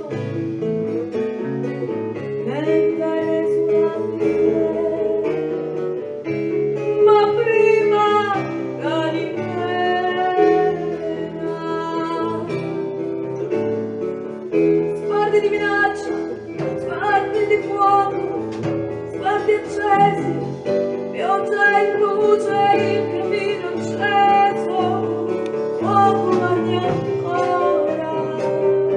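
Music from a small acoustic band: guitar accompaniment with a melody line over it.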